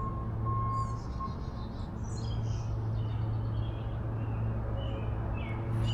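Songbirds chirping and calling over a steady low mechanical hum. A short, level high note repeats a few times in the first second and a half.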